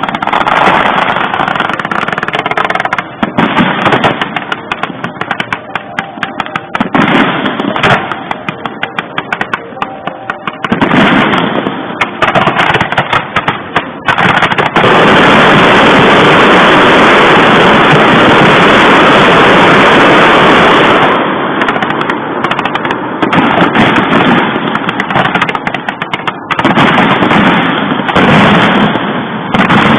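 Fireworks bursting and crackling in dense, rapid volleys of pops and bangs, with a steady loud rushing crackle lasting about six seconds midway through.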